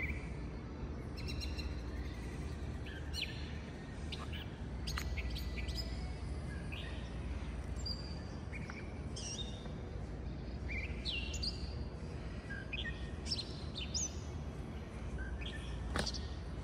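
Birds chirping: short high calls, some sliding down in pitch, scattered throughout, over a steady low hum.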